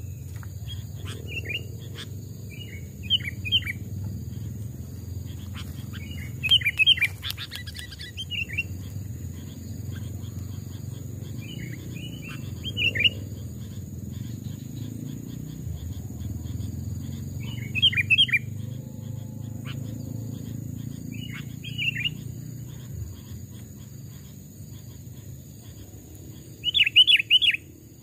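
Sooty-headed bulbul (kutilang) singing short, quick whistled phrases every few seconds, about seven in all, the last one near the end the loudest. A steady low rumble runs underneath.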